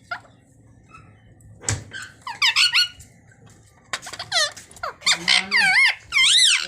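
Ringneck parrot making high, squeaky calls whose pitch swings up and down, in four short runs from about two seconds in, after a sharp click.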